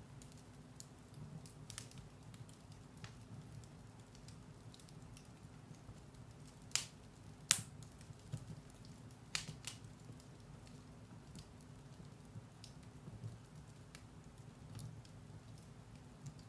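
Firewood burning in a fireplace: faint, sparse crackles and sharp pops over a low steady rumble, with the loudest two pops a little before halfway and a few more soon after.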